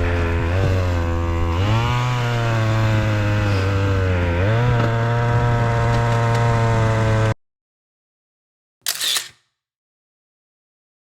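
Chainsaw running steadily, revving up twice as it is throttled. The sound cuts off abruptly about seven seconds in, with one short burst of noise near nine seconds.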